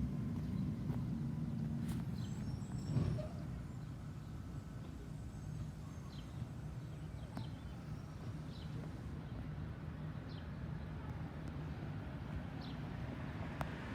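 Outdoor ambience at a railroad crossing: a steady low rumble with a single knock about three seconds in and a few short high chirps scattered through.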